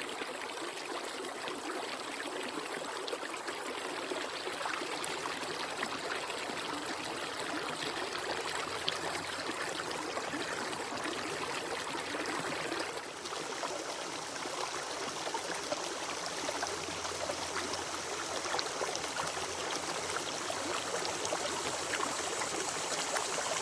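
A creek's water running steadily over a small waterfall, a continuous rushing splash.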